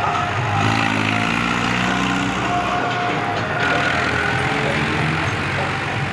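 Mahindra Arjun 555 tractor's diesel engine running steadily.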